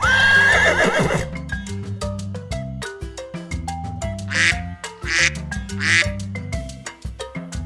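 Duck quacks as a sound effect over light, bouncy background music: a loud wavering animal call right at the start, then three quacks about a second apart near the middle.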